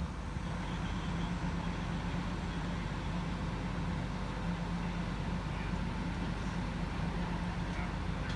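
A diesel engine running steadily at low speed, a continuous low hum with a held drone.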